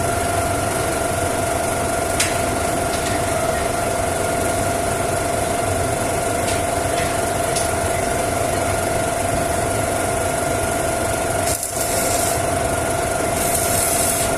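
Workshop machinery running steadily with a constant hum-like tone, briefly cutting out for a moment near the end, with a few sharp clicks and short bursts of high hiss.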